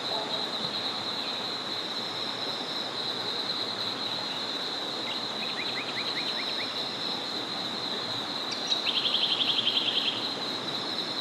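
Small forest river flowing, under a steady high-pitched chorus. About halfway a bird gives a short series of rising notes, and near the end a louder rapid trill lasting about a second.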